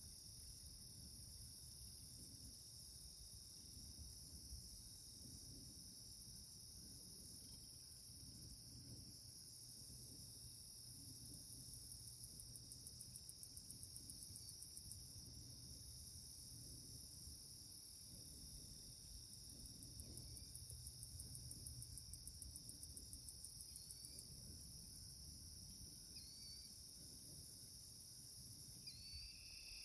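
A steady, high-pitched chorus of crickets and other insects, several tones holding unbroken, over a low wind rumble on the microphone. A few faint short chirps come near the end.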